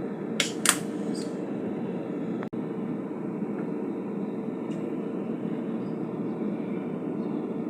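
A small motor running steadily with an even hum, with two sharp clicks about half a second in.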